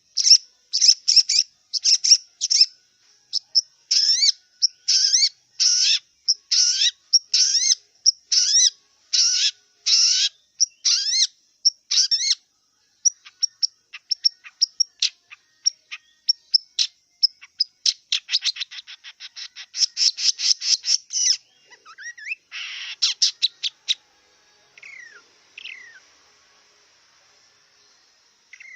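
Long-tailed shrike (cendet) singing a loud, varied song of sharp repeated notes, one or two a second at first, breaking into fast rattling runs past the middle of the song, then tailing off into a few faint calls near the end.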